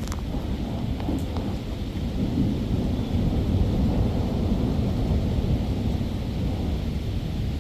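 Thunder from a close lightning strike rolling and rumbling low, swelling in the middle, over steady rain.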